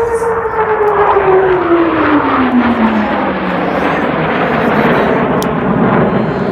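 Blue Angels F/A-18 Hornet jets making a fast low pass. The engine whine drops steeply in pitch over about three seconds as they go by, then gives way to a loud, steady jet roar.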